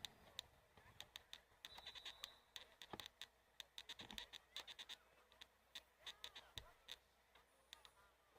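Near silence with many faint scattered clicks and taps, and a few faint, distant honking calls.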